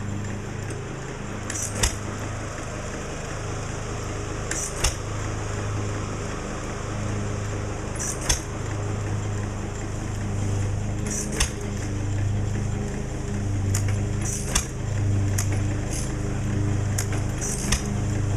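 Old stationary flywheel engine running, a steady low hum broken by a sharp crack about every three seconds.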